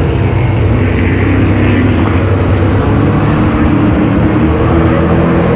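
Super stock race car engine running hard at racing speed, a loud, steady drone.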